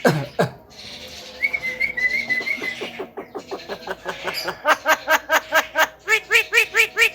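Javan myna calling: a few quick sweeping notes, then a wavering whistle, then a fast run of repeated pitched notes about six a second that gets louder near the end.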